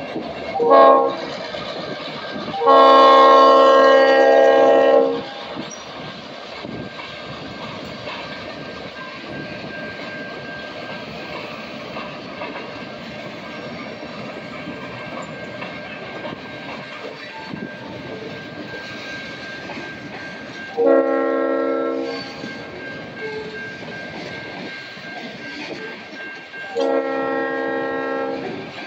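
Freight train rolling by with its wheels clacking over the rails, while the Aberdeen and Rockfish GP38 locomotive's air horn sounds four blasts: a short one about a second in, a long one of about two and a half seconds just after, and two shorter blasts of about a second and a half near the end.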